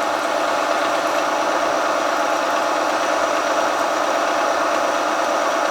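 Milling machine running steadily, drilling into a hard, flame-hardened crankshaft; an even mechanical drone with no change in pitch.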